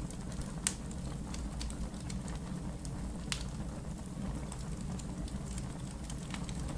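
Log fire crackling in a fireplace: scattered sharp pops and snaps over a steady low rumble of the flames, with two louder pops, one under a second in and one about three seconds in.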